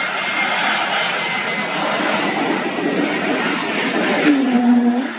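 Airliner engines at close range: a loud, steady rushing roar. A short low tone with a slight downward slide comes in near the end.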